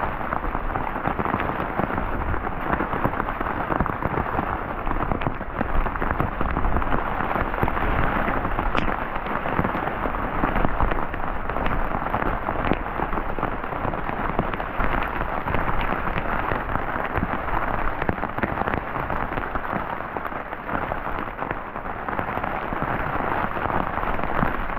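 Rain falling steadily on a tarp roof overhead, heard from beneath it: a dense patter of countless drop hits.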